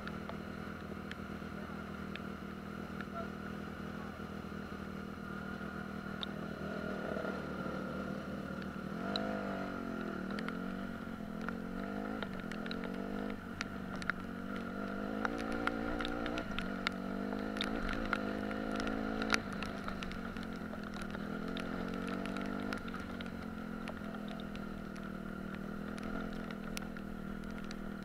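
Dirt bike engine running while riding, its pitch rising and falling again and again with the throttle, with a steady whine above it and scattered small ticks.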